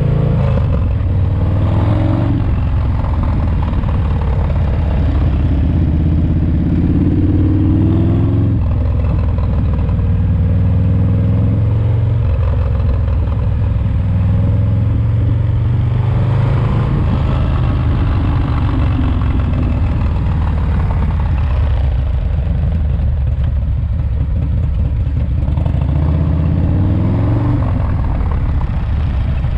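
Harley-Davidson motorcycle's S&S 107 cubic inch V-twin engine running on the road, its revs rising and falling several times. The rebuilt engine is being broken in.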